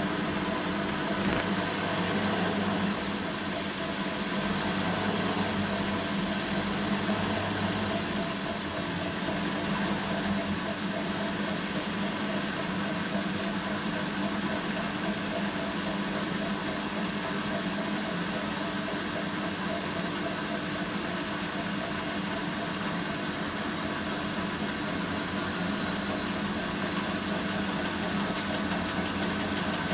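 Bosch WAN28220FF front-loading washing machine running a synthetics 40 °C wash, with a steady mechanical hum. A deeper hum comes and goes a few times in the first eight seconds.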